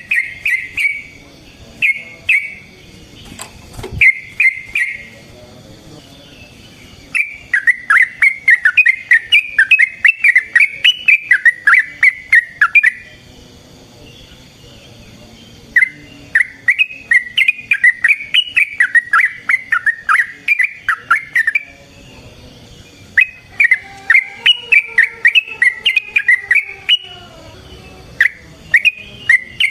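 Yellow-vented bulbul (trucukan) singing: a few short bubbly phrases, then long runs of rapid chirping notes that slide up and down, each run lasting several seconds with short pauses between.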